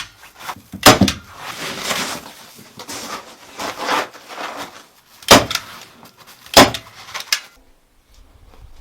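Several sharp knocks, three loud ones, with scraping and rustling between them; it quietens near the end.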